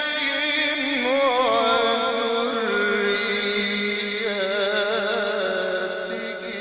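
A male Quran reciter's voice in the melodic mujawwad style, drawing out a long ornamented phrase with a wavering pitch. The pitch settles lower partway through, and the phrase fades away near the end.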